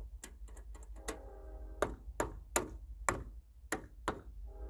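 A series of about a dozen sharp, irregular clicks and taps, with background music carrying a steady chord for about a second near the start.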